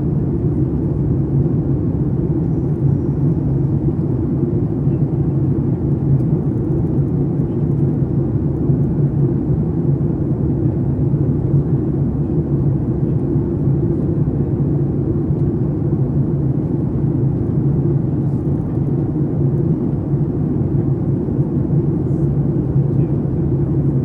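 Steady low drone inside the cabin of a Boeing 737 MAX 8, its CFM LEAP-1B engines running, with no change in pitch or level.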